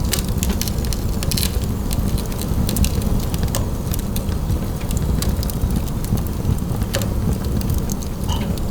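Wood fire burning in a fireplace: a steady low rumble of flame with frequent sharp crackles and pops.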